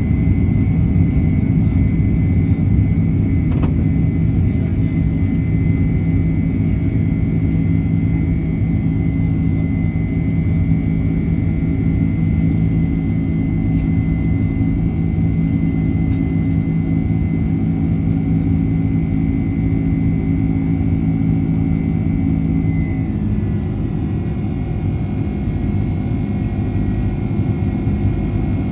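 Boeing 767-300's jet engines and rushing air heard from inside the passenger cabin: a steady loud rumble with a steady engine whine. Near the end the whine drops slightly in pitch and the rumble eases a little.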